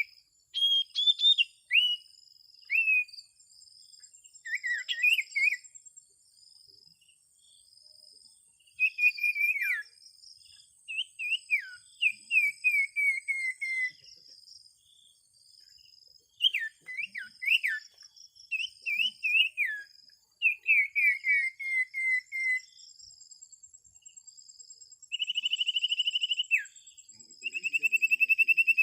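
Small songbirds calling: runs of short, sharp, whistled notes that each drop in pitch, with two rapid trills of about a second and a half near the end. Insects buzz steadily and high underneath.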